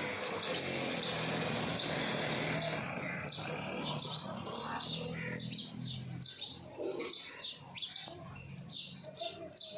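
House sparrows chirping: short repeated chirps, about two a second at first, growing busier and overlapping from about three seconds in. A faint low hum lies under the first half.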